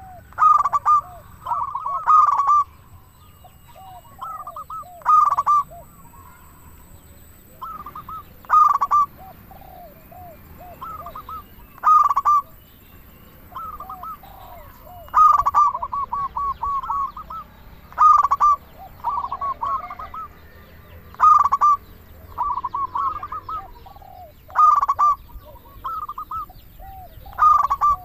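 Zebra dove (perkutut) singing: loud phrases of rapid staccato coos recur about every three seconds, with fainter, lower coos between them.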